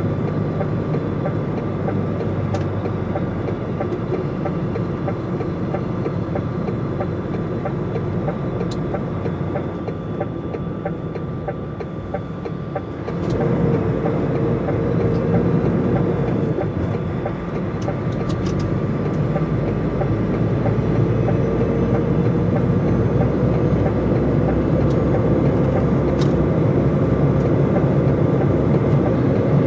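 Steady road and engine noise from a DAF XF105.460 truck on the move, its 12.9-litre six-cylinder diesel running under way. About 13 seconds in the noise grows louder, and over the second half a faint tone slowly rises in pitch.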